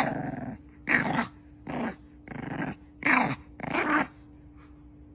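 A dog growling in six short, pitched vocal bursts, one about every three-quarters of a second, stopping about four seconds in.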